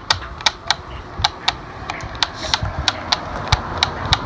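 A run of sharp clicks or pops, about three a second and slightly uneven, over a faint hiss.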